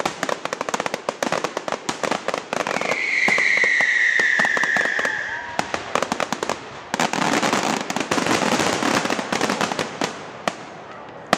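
Fireworks display going off in rapid crackling bangs, with a long whistling firework about three seconds in, its pitch falling slightly. A dense crackling spell follows and thins out near the end.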